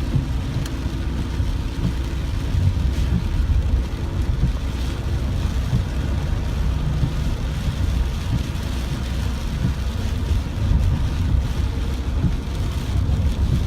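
Steady rain falling, with a heavy, continuous low rumble underneath.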